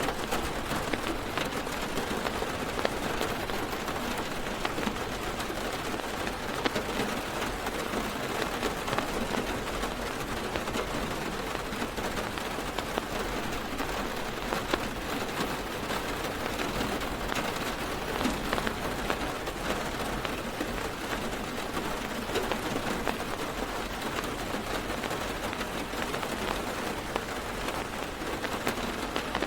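Heavy rain drumming steadily on a car's roof and windows, heard from inside the car, a dense patter with many small sharp drop impacts.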